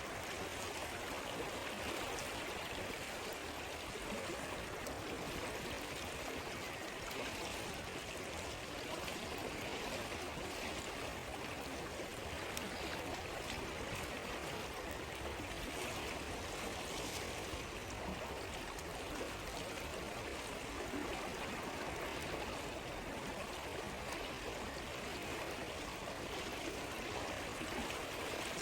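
A stream flowing steadily: a constant rush of running water with no change in level.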